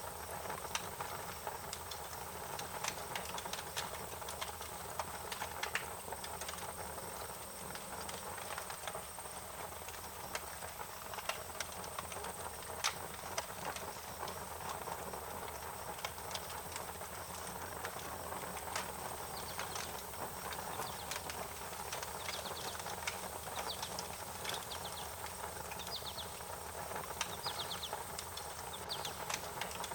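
Wood fire crackling with irregular sharp pops over a steady hiss. From about two-thirds of the way in, short high chirps repeat every second or two.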